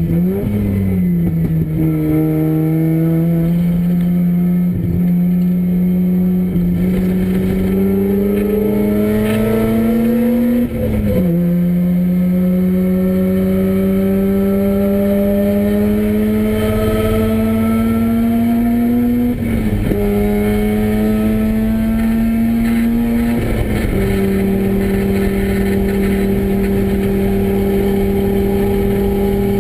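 Mazda Renesis two-rotor rotary engine in a race-prepared RX7 running hard under load. Its pitch climbs slowly through each gear and drops sharply at each shift, four times. Near the end it holds a steady pitch.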